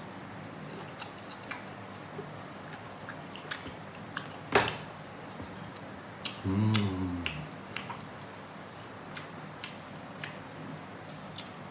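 Close-up eating sounds: chewing and biting on a sausage and a chicken leg, with scattered small mouth clicks and smacks. There is one sharper, louder click a little before halfway, and a short low hum about two-thirds of the way through.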